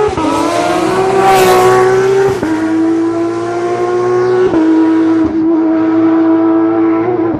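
Rally car engine held at high revs under full throttle, with brief dips in pitch at gear changes about two and a half and four and a half seconds in. There is a short surge of tyre and road noise about a second and a half in.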